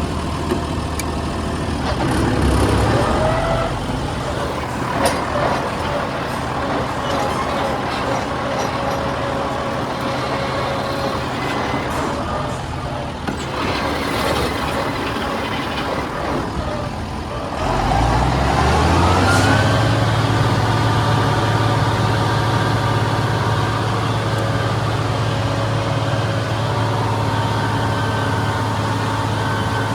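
Farm tractor engine running under way, revving up about two seconds in. It revs up again with a rising sweep about eighteen seconds in, then holds a steady higher speed.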